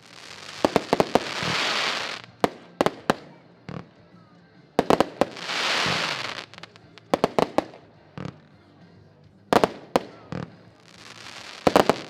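A 75-shot King of Pirates firework battery firing in salvos. Each salvo is a quick cluster of sharp launch bangs followed by a hissing burst about a second long. This happens three times, roughly every five seconds.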